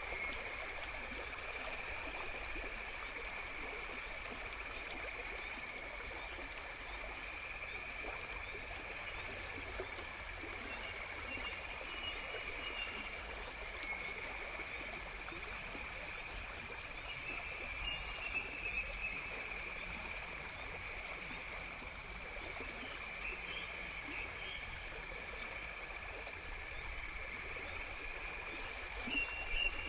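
Outdoor nature ambience: a steady chorus of insects with a water-like hiss under it, and a rapid high pulsing trill from about halfway in for a couple of seconds, returning near the end.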